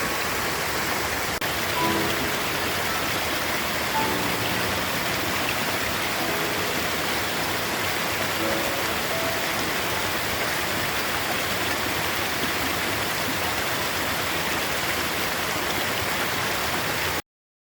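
Steady rushing water of a small stream waterfall, a constant even hiss. Faint soft music notes sound under it in the first half, and the sound cuts off abruptly near the end.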